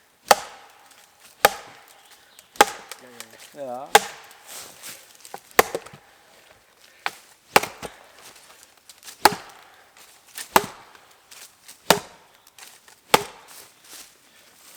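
Repeated blows striking wood, steady and evenly paced about once every second or so, each a sharp crack.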